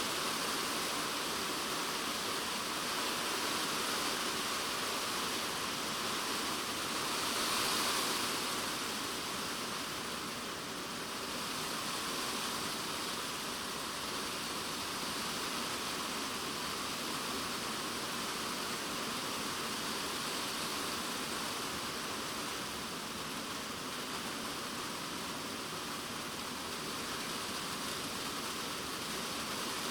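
Heavy typhoon rain drumming steadily on a polycarbonate shed roof, heard from inside as a dense, even hiss, swelling briefly about a quarter of the way in.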